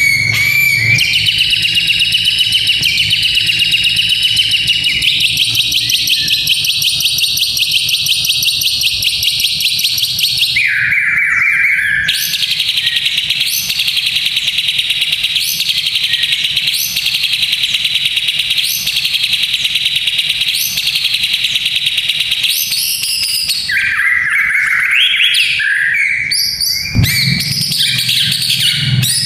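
White-rumped shama (murai batu) singing loudly. It opens with a long, very fast rattling trill (kretekan), then repeats a short whistled phrase about once a second, and ends with varied calls.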